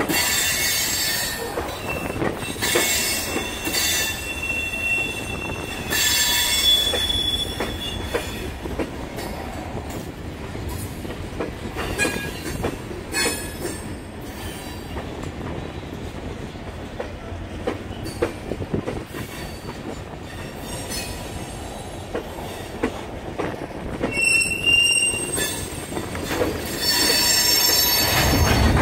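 Freight train cars (covered hoppers and tank cars) rolling past: a steady rumble of steel wheels on rail with scattered clicks, and high-pitched wheel squeals that come and go several times, strongest in the first third and again near the end.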